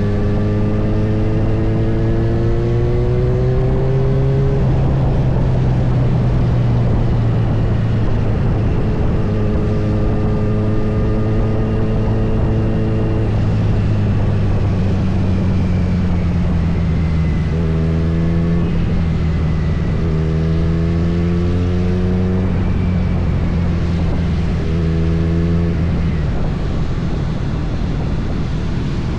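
Kawasaki Z900's inline-four engine running under way, its pitch climbing and then dropping back several times as it pulls through the gears, over a steady rush of wind noise.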